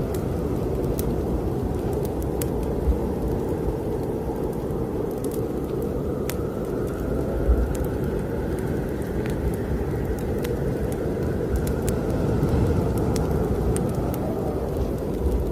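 Snowstorm wind blowing hard and steadily, with a faint whistle that slowly rises and falls, over scattered sharp pops and crackles of a wood fire burning in a fireplace.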